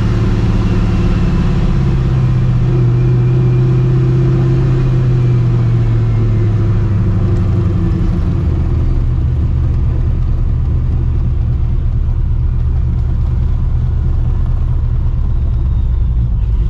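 Straight-piped, cammed, Procharger-supercharged 5.4-litre two-valve V8 of a 1999 Mustang GT running at low revs, its pitch easing down around the middle and then holding steady.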